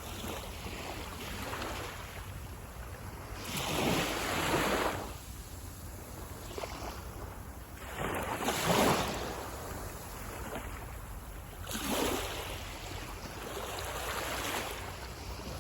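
Sea waves breaking on a beach and washing up the shore: three clear surges about four seconds apart, with a smaller one near the end, over a steady low rumble.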